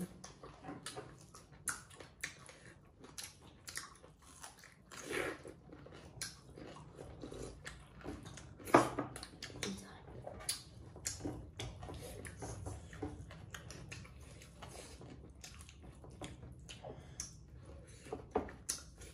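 Close-up mukbang eating: people chewing and biting buffalo meat and rice eaten by hand, with many short wet mouth clicks and one louder click about nine seconds in.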